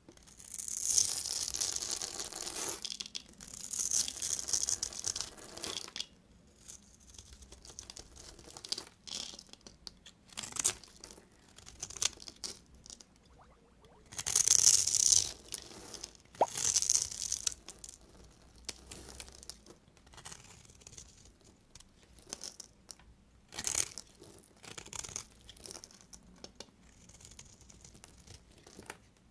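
Knife cutting through bars of soap: repeated scraping cutting strokes of uneven length, a few lasting two to three seconds and many shorter, with brief pauses between.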